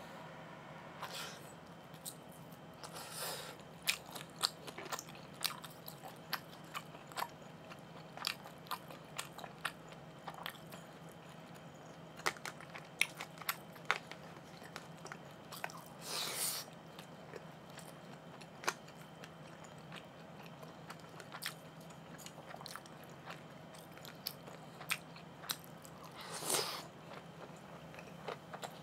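Close-up chewing and biting of LA galbi (marinated beef short ribs) and rice, with many small wet mouth clicks and smacks. Three louder, longer noises come about 3, 16 and 26 seconds in, over a faint steady hum.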